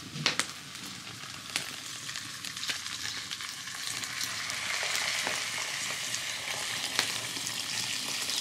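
Corn kernels frying in lard sizzle in a hot clay pot. From about three seconds in, water poured from a glass pitcher splashes into the pot and the sound grows louder. A couple of sharp clicks near the start.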